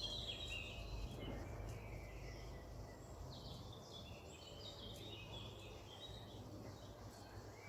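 Small birds singing in short, quick chirping phrases, busiest in the first second and again from about three seconds in, over a steady low background rumble.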